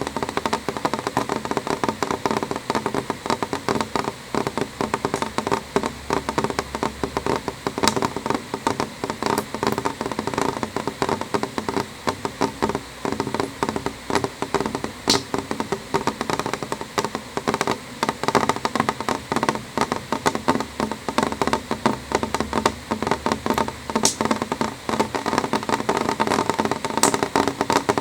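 Gentle rain on window glass: a dense, steady stream of small drops tapping, with a few sharper, louder drops now and then.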